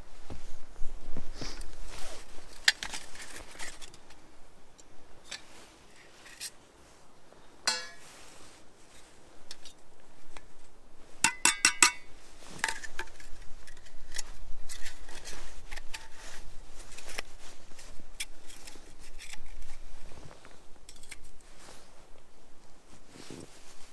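Scattered clicks, knocks and clinks of hard objects being handled. There is a short ringing clink about eight seconds in and a quick cluster of ringing clinks near the middle.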